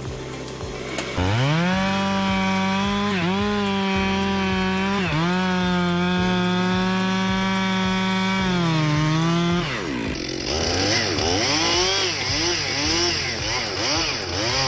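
Chainsaw revving up to full throttle about a second in and running at a high, steady pitch, dipping briefly twice and sagging just before it stops. A motor then follows whose pitch rises and falls about twice a second, with a high hiss over it.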